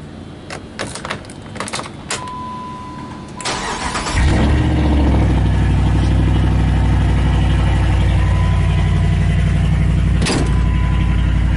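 Key clicks at the ignition and a brief steady beep, then the 2008 Jeep Grand Cherokee's Hemi V8 cranks, catches about four seconds in, and settles into a loud steady idle. A single sharp click near the end.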